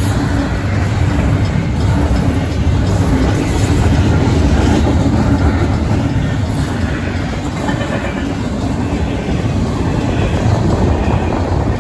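Union Pacific double-stack intermodal freight cars rolling past at speed: a loud, steady noise of steel wheels running on the rails, with no letup.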